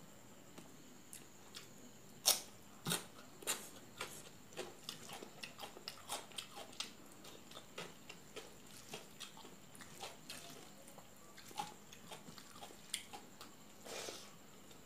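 Close-miked eating sounds: wet chewing and lip smacks as rice and fish curry are eaten by hand, in irregular sharp clicks several times a second, the loudest a little after two seconds. A longer, softer sound near the end as another handful goes into the mouth.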